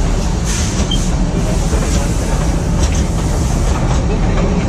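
Matheran toy train's narrow-gauge carriage running along the track, heard from on board: a steady rumble and rattle of wheels and coach, with a few faint clicks.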